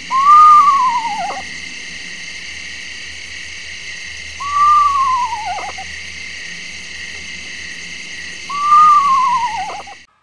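A bird calling three times, each call a long clear whistle that rises briefly and then slides down in pitch, about four seconds apart, over a steady hiss.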